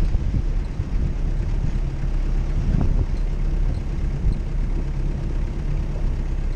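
Jeep Cherokee's engine running steadily as it drives off-road, a low rumble with a single knock about three seconds in.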